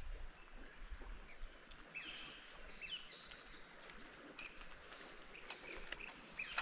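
Birds calling faintly: scattered short chirps and quick whistled glides over a steady low hiss.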